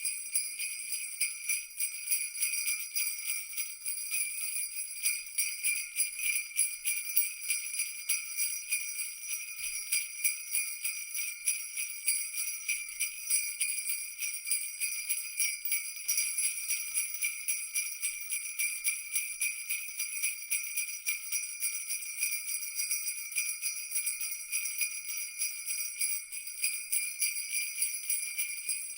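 Jingle bells shaken continuously in a steady, rapid jingling, without a break.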